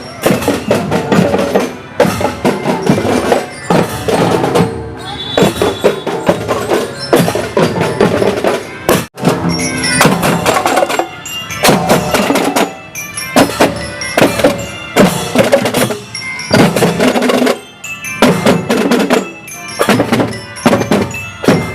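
School marching drum band playing: snare and bass drums beating a steady rhythm under a ringing metal-bar melody of bell lyres (glockenspiels). The sound drops out for an instant about nine seconds in.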